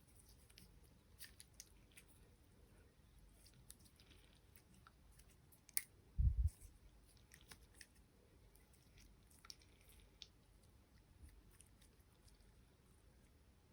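Faint close-up handling of slime and small plastic toys: scattered soft squishes and small clicks, with one short low thump about six seconds in.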